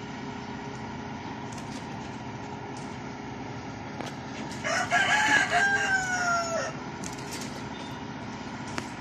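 A rooster crows once, a call of about two seconds in the middle that holds its pitch and then falls away at the end, over a steady background hum and a few light clicks.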